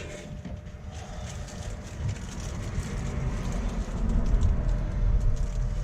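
A road vehicle going by, a deep low rumble that swells from about two seconds in and stays loud to the end.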